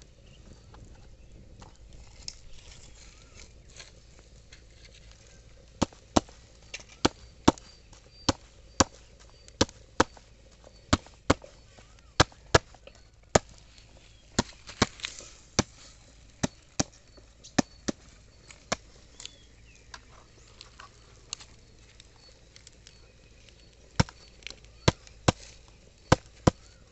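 Chicken breast being pounded flat on a wooden board: sharp knocks about two a second. They start about six seconds in, stop for several seconds, and start again near the end.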